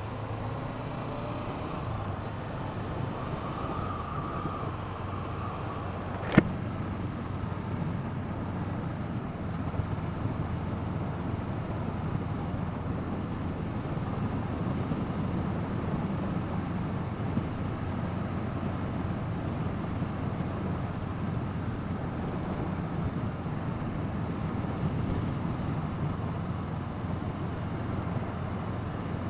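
Steady wind rush over the camera's microphone while riding, with the 2017 Honda CB500F's parallel-twin engine running beneath it. A single sharp click about six seconds in.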